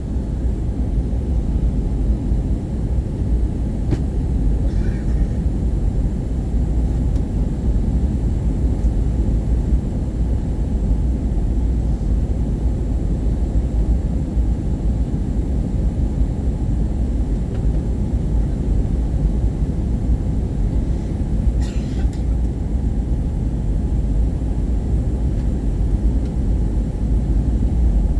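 Steady cabin noise of an Airbus A320-232 in flight: a constant low rumble of airflow and engines, heard from a front-row seat.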